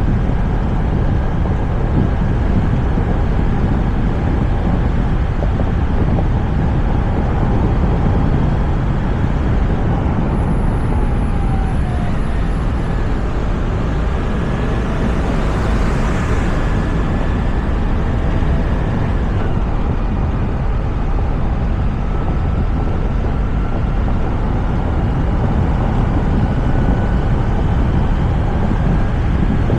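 Steady wind rush on a roof-mounted camera's microphone on a moving Toyota RAV4, with tyre and road noise beneath. A brief swell of hiss about halfway through.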